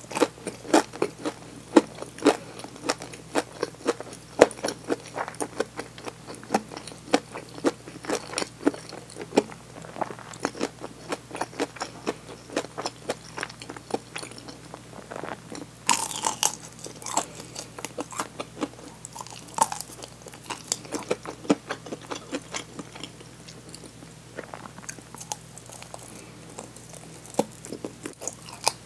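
Close-miked chewing of a deep-fried chicken drumstick: the crisp batter crunches and crackles in the mouth with quick wet clicks. A louder crunch comes about halfway through.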